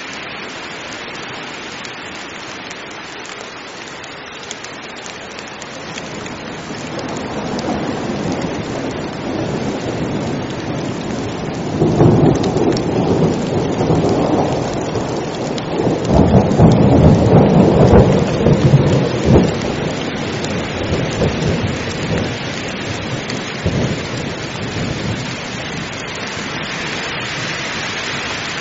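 Heavy rain falling steadily, with a long roll of thunder that builds about six seconds in. The thunder swells loudest near the middle, in two big peals, then rumbles away toward the end.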